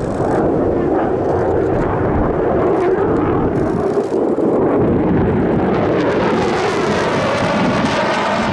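An aircraft flying past, its engine noise loud and continuous, with a sweeping, shifting tone in the second half as it passes.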